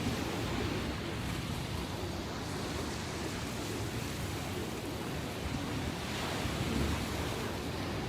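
Sea surf after a typhoon: waves washing and breaking in a continuous, even rush, swelling slightly about six seconds in.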